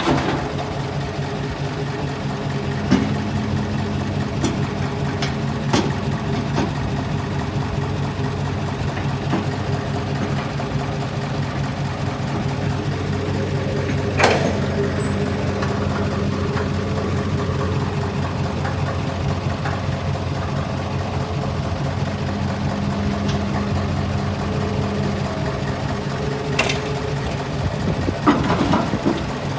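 Heavy earthmoving machinery's diesel engine running steadily at an even low pitch, with a few sharp clanks now and then, the loudest about halfway through.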